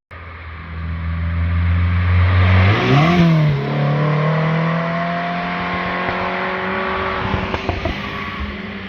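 A car's engine passing by at speed: a low, steady exhaust note swells, jumps sharply up in revs about three seconds in at its loudest, then holds the higher revs as it slowly fades, with a few sharp pops near the end.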